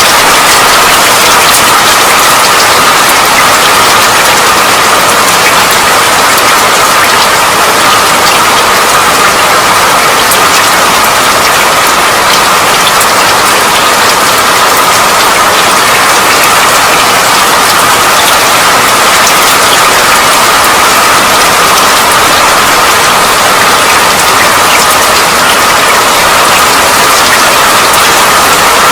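Steady, heavy rain falling, with a constant hiss and many small, sharp ticks of individual drops striking a surface.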